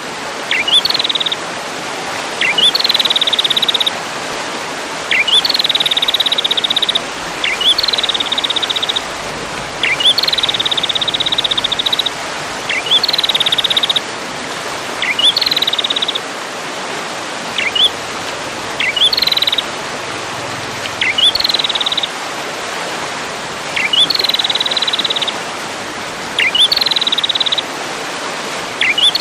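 A songbird repeating one short phrase about every two seconds: a few quick rising chip notes, then a high buzzy trill, played as a bird-training recording over a steady hiss.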